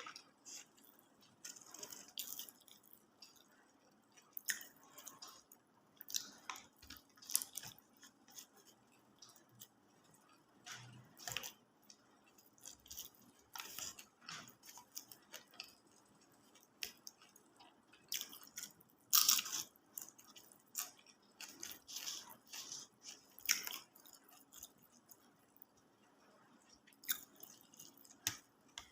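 Close-up mouth sounds of a person chewing nasi Padang: irregular wet clicks and small crunches, coming every second or so.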